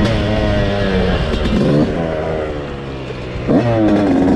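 Dirt bike engine running under a varying throttle: its pitch sags and falls off over the first three seconds, then it revs up sharply about three and a half seconds in.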